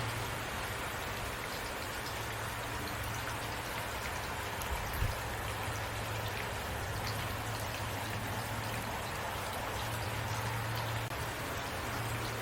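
Heavy rain falling steadily, a dense even hiss of drops, with a low steady hum underneath and a soft low thump about five seconds in.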